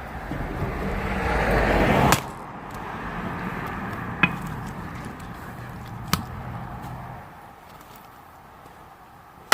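A motor vehicle passing, its engine noise swelling to a peak about two seconds in and then fading away. Sharp single knocks of an axe striking firewood come about two, four and six seconds in, and once more at the very end.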